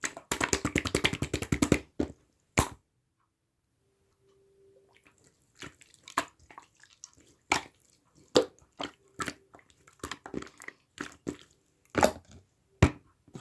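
Slime being squished and poked by hand, giving a quick run of sticky clicks and pops for about two seconds, then a pause, then scattered single pops and clicks.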